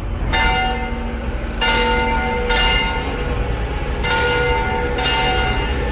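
A large bell struck repeatedly, about five uneven strikes, each ringing on into the next, over a steady low rumble.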